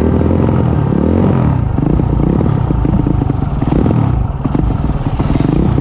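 Pitbike's single-cylinder engine at racing revs, its pitch climbing and dropping several times as it accelerates, shifts and backs off.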